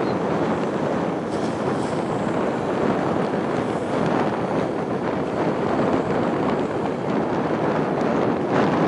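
Steady wind rushing and buffeting on the microphone.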